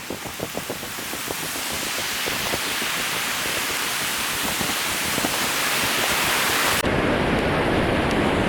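Rushing mountain river water, swelling steadily louder, with a rhythmic crunching, about four a second, fading out in the first second or so. About seven seconds in the sound changes abruptly to a heavier, deeper rush of the river.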